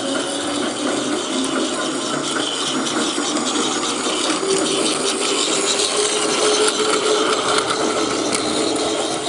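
Battery-powered Plarail toy train running on plastic track: a steady whir of its small motor and gearbox with a dense rattle of clicks.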